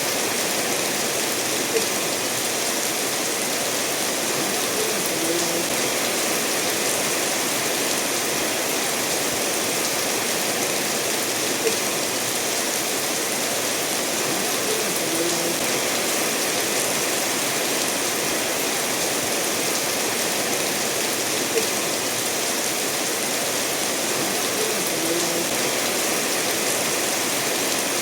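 Steady rainfall mixed with a stream running over stones, an even rushing hiss. Three brief clicks stand out, about ten seconds apart.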